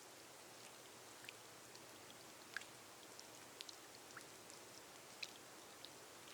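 Faint gentle rain on a glass roof: a steady soft hiss with scattered single drops ticking at irregular moments.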